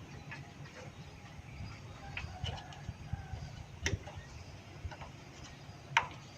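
Scattered light clicks and taps of small engine parts and hand tools being handled during a repair, with two sharper knocks about four and six seconds in.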